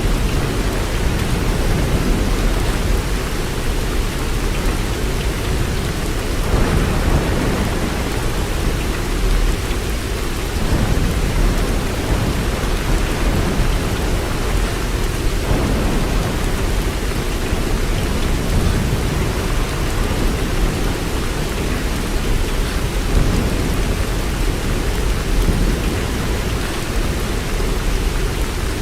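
Steady heavy rain, an even hiss of downpour with a deep low rumble underneath. It swells briefly about six seconds in and again around fifteen seconds.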